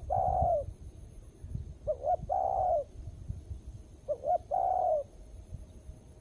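Spotted dove cooing its repeated phrase, two short notes and then a longer coo, about every two seconds.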